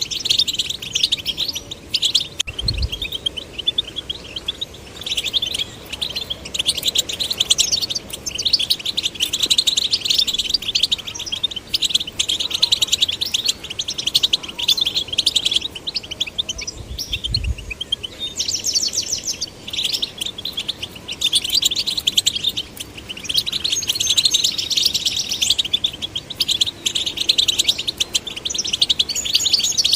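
European goldfinch song: rapid, continuous twittering and trills in long phrases broken by brief pauses. Two short low thumps, about three seconds in and again near the middle.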